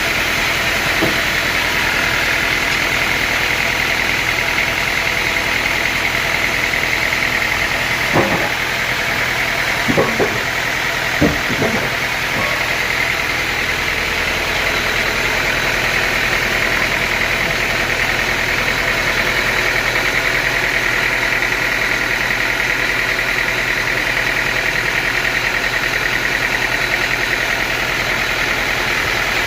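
A sawmill's engine running steadily, with a steady high whine over it and a few sharp knocks about eight to eleven seconds in.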